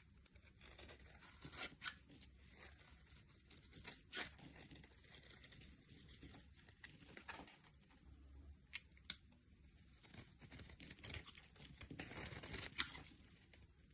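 Close-up crisp crackling, crunching and tearing of a material being cut or crushed, with scattered sharp clicks.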